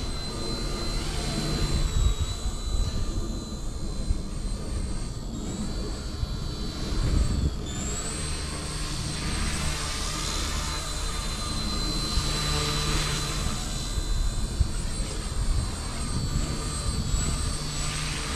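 Eachine E160 micro RC helicopter in flight: a steady high-pitched electric motor and rotor whine that shifts briefly in pitch about five and eight seconds in, over a low rumble.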